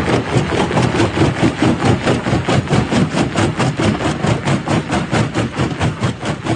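Jaw-type rock crusher running, a loud mechanical clatter that pulses evenly about five times a second.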